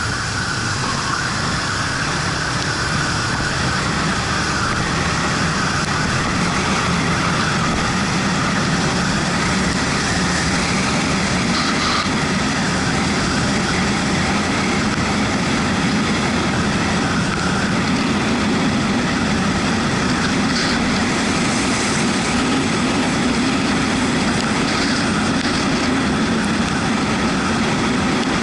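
Yamaha MT-125's single-cylinder engine running steadily while riding, under a constant rush of wind and tyre spray on the wet road.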